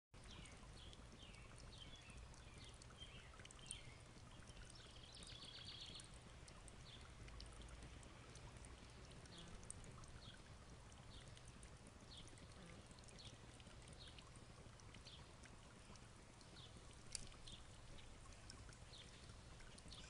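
Faint birdsong: short high chirps repeated about once a second, with a brief quick trill about five seconds in, over a steady low hum.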